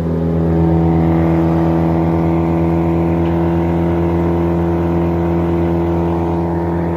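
Brand-new Morbark Beever wood chipper's engine running steadily at full throttle with the auto clutch engaged, the empty chipper spinning with no wood being fed. The sound swells slightly about half a second in, then holds steady.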